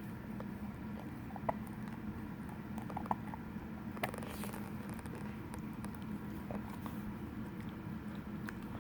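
A dog nibbling and chewing at her own leg: scattered soft clicks and smacks of teeth, with a brief louder rustle about four seconds in. A steady low hum runs underneath.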